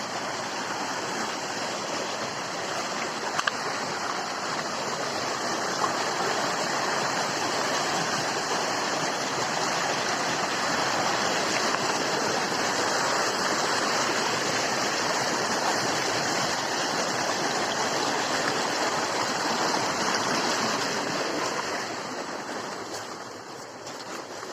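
Steady rush of flowing water, dying away near the end.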